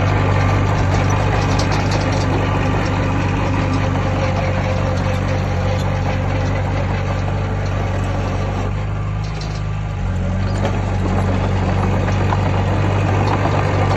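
Heavy diesel engine of earthmoving machinery running steadily, easing off briefly about two-thirds of the way through, then picking back up.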